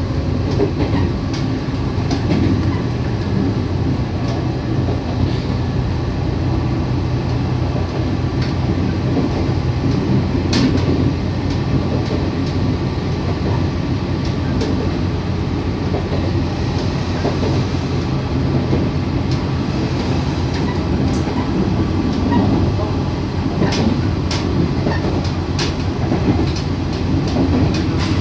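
Steady running noise heard inside a local train's cabin as it rolls along the track: a low rumble, with the odd click of wheels passing over rail joints and points.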